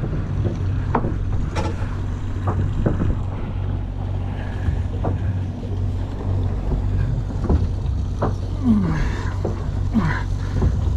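Fishing boat's engine running with a steady low hum, with scattered short knocks and clicks over it.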